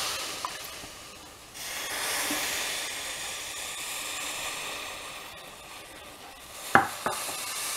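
Vinegar being poured into a pot for a marinade, a steady noisy pour in two stretches, with two sharp knocks near the end.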